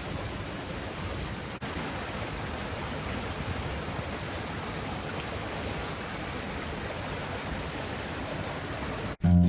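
A steady rushing noise, even throughout, with a brief dropout about a second and a half in. Music with guitar starts right at the end.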